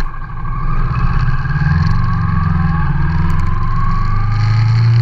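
Motorcycle engines running loud and steady, with one engine's pitch rising as it accelerates about halfway through.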